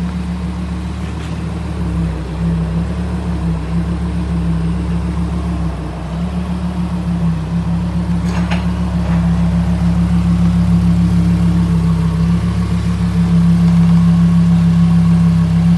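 Lamborghini Huracán Performante's 5.2-litre V10 engine running at a steady idle, getting slightly louder toward the end.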